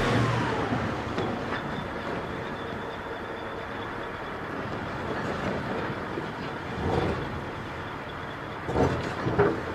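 A heavy vehicle running with a steady noise, and a few brief louder sounds about seven and nine seconds in.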